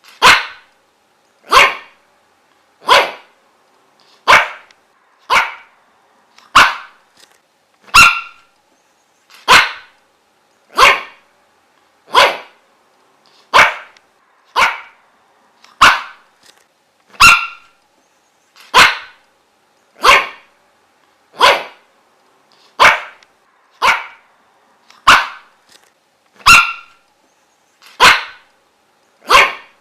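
A dog barking over and over: single short, sharp barks at an even pace, about one every second and a quarter.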